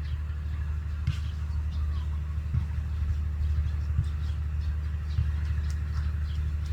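Steady low rumble with faint, short, high bird chirps and a few light taps scattered through it, from a pair of birds at a dog's food bowl.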